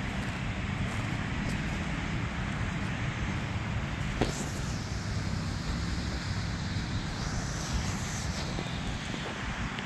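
Wind rumbling on the microphone over a steady background of distant road traffic, with a sharp click about four seconds in and a faint higher whine that rises and fades near the end.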